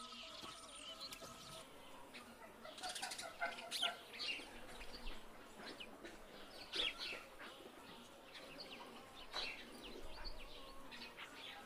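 Small birds chirping: many short, high calls scattered through, some overlapping, with a few louder ones now and then.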